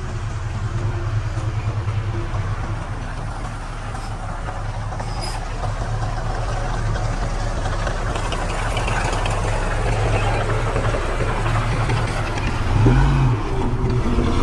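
Diesel engine of heavy earthmoving machinery running steadily under load, with a short rise and fall in engine pitch near the end.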